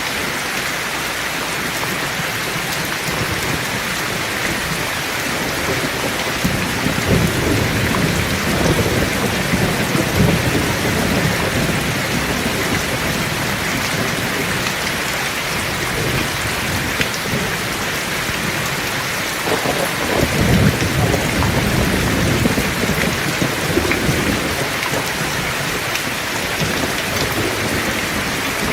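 Heavy rain falling steadily, with two long rolls of thunder: one starting about six seconds in, another about two-thirds of the way through.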